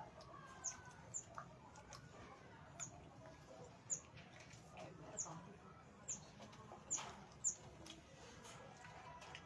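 Small aviary birds chirping: short, sharp high-pitched chirps about once a second, with a few softer, lower calls between them.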